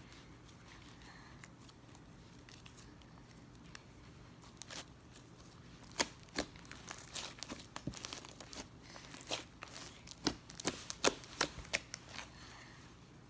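Slime being worked by hand, giving off irregular sticky clicks and crackling pops. It is faint at first and grows into a quick, uneven run of pops in the second half.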